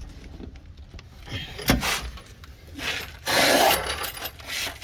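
A knock, then a rasping metal scrape lasting under a second, from a wrench being worked on a car's lower rear shock absorber bolt while someone strains on it.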